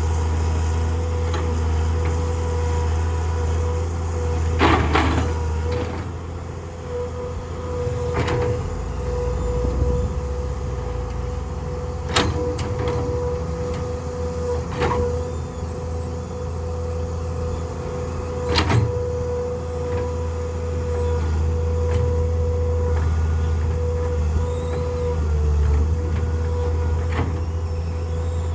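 A land truck's engine running steadily with a low hum and a steady whine, with a few short clanks about every three to four seconds.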